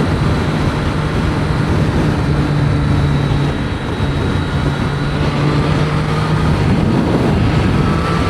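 Triumph Street Triple 765 RS inline-three engine pulling steadily in fourth gear at highway speed, over a steady rush of wind noise heard from inside the helmet. The engine note drops out briefly about four seconds in, then carries on.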